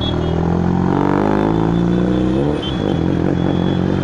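Motor vehicle engine running in road traffic, its pitch rising and shifting twice as it accelerates.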